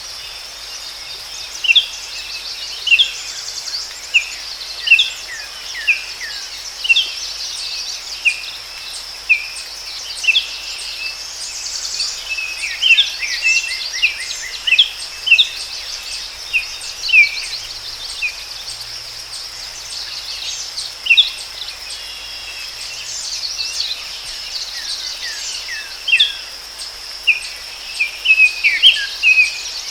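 Forest ambience: birds chirping in short, sharp downward-sliding calls, roughly one a second and bunching into quick runs a few times, over a steady high-pitched insect drone.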